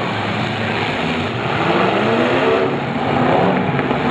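Demolition derby cars' engines running, with one engine revving up and down about one and a half to three seconds in.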